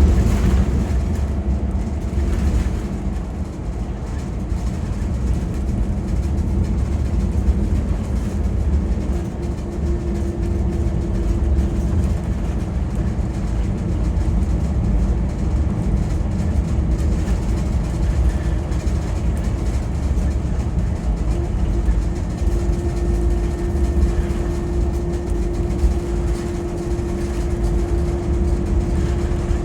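Scania K410EB6 coach under way: a steady low engine drone and road rumble. A faint steady whine joins for a couple of seconds about ten seconds in, and again over the last seven seconds.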